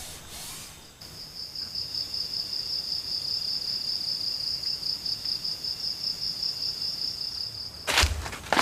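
An insect's steady, high-pitched trill, starting about a second in and stopping suddenly near the end. A short burst of rustling or crunching comes right after it stops.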